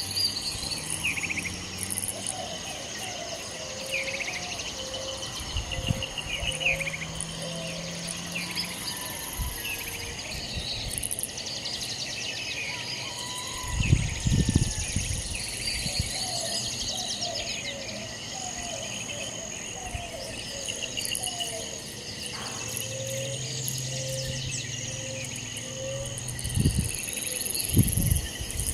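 Outdoor ambience of insects chirring steadily at a high pitch, with scattered bird calls. A few low thumps come about halfway through and again near the end.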